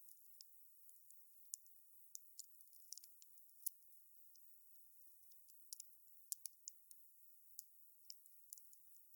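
Wood fire crackling: faint, irregular sharp pops and snaps, sometimes in quick clusters, with no low rumble beneath them.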